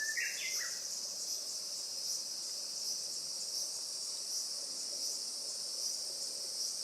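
A steady, high-pitched chorus of insects that swells slightly about every three-quarters of a second. A short bird call of a few stepped notes sounds at the very start.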